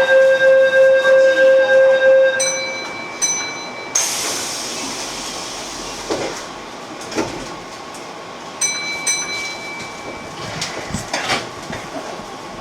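Keihan train at a station: an electronic platform buzzer pulsing about three to four times a second for a couple of seconds, then higher beeps and a burst of hiss about four seconds in. After that comes the train's running noise with scattered clicks and knocks, and a further beep near the end.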